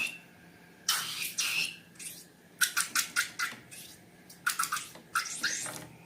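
Slime being squished and kneaded by hand, giving clusters of short, sharp clicks and crackles in several bursts with quiet gaps between.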